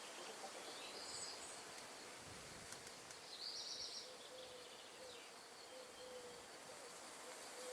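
Wind in trees: a faint, steady rustling hiss, with a bird giving short high chirps about a second in and again around three and a half seconds in.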